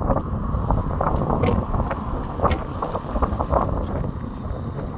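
Wind buffeting the microphone as a low, uneven rumble, with scattered light taps.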